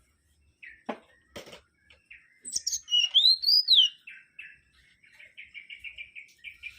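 Mangrove whistler singing: a loud whistled phrase that glides up and down, then a fast run of short repeated notes, about eight a second. Two sharp knocks come just before the song.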